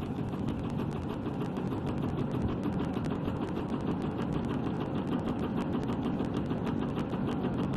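Heating-wire sewing machine running steadily, its stitching mechanism ticking rapidly and evenly over a constant mechanical hum.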